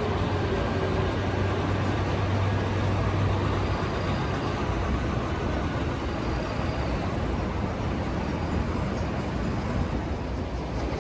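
Train running past, a steady rumble with a low hum that fades out about three and a half seconds in.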